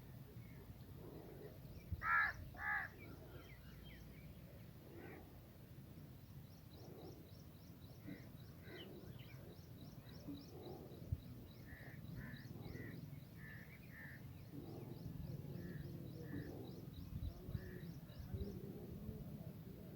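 Birds calling in open country: two loud calls about half a second apart, about two seconds in, then fainter scattered calls and a rapid, high, steady ticking trill through the middle, over a low background rumble.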